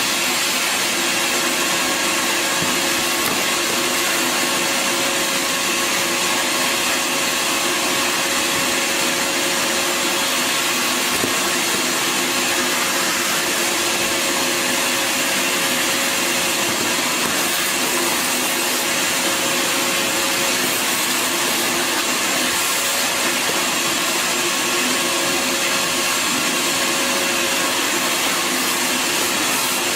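Bissell Garage Pro 18P03 wall-mounted wet/dry shop vacuum, with its 12-amp motor, running continuously under suction: a steady rushing noise with a constant whine.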